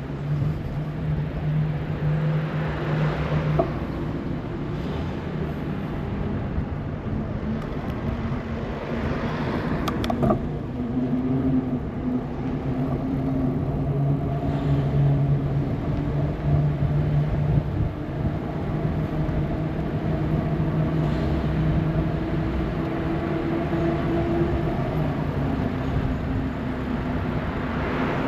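Riding a bicycle with an action camera: wind rushing over the microphone and tyres rolling on the path, with a steady low hum that drifts slightly in pitch. A single sharp click about ten seconds in.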